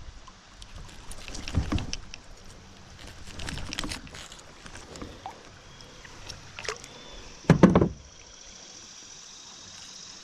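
Scattered knocks, clicks and rustles of a fish and gear being handled aboard a kayak, with one louder hollow thump about three-quarters of the way through.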